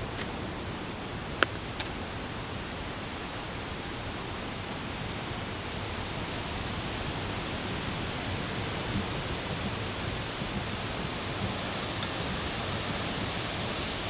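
Steady rain hiss, growing slightly louder in the second half, with one sharp click about a second and a half in and a fainter one just after.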